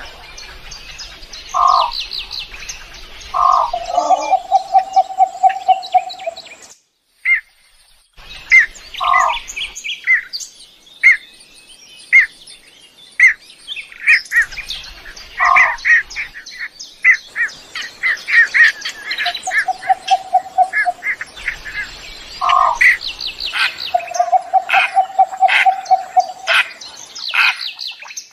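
Birds chirping and singing: many short, high chirps, broken several times by a lower rapid trill of repeated notes. The calls stop briefly about seven seconds in, then carry on.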